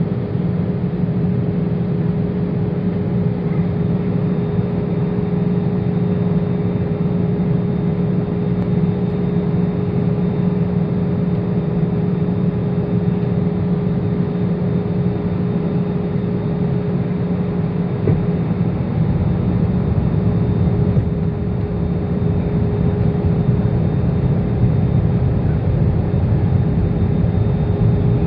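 Steady cabin noise inside an Airbus A320-200 on final approach: the even rush of airflow with the steady hum of its CFM56 engines.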